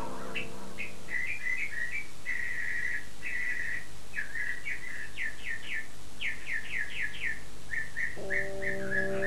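Bird chirping and trilling, short chirps broken by quick runs of downward-sweeping notes. Sustained music chords come back about eight seconds in.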